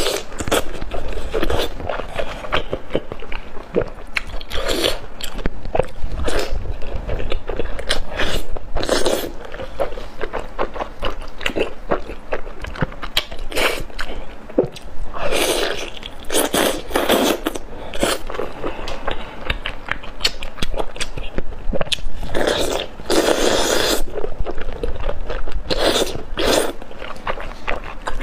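Close-miked biting and chewing of saucy braised lamb intestine bundles: irregular wet mouth sounds and bites, with louder clusters of chewing now and then.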